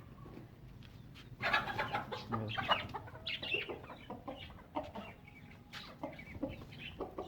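Domestic hens clucking, a run of short repeated calls that starts about a second and a half in, as the birds are let out of their cages.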